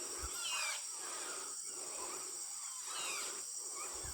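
A flock of jungle birds calling as they gather at their evening roost tree, with short descending calls coming in groups. Behind them runs a steady high-pitched insect chorus.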